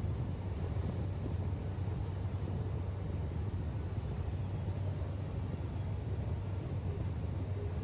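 Car on the move: a steady, low rumble of engine and tyres on the road, with some wind noise.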